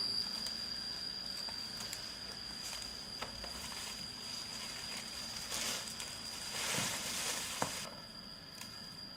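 An insect keeps up a steady high-pitched trill, with a few brief rustles and a single sharp click near the end.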